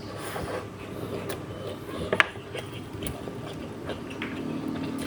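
Close-miked eating sounds from a patin (catfish) head: chewing, sucking and picking at the bones, with scattered small clicks and one sharp click about two seconds in. A vehicle engine hum builds near the end.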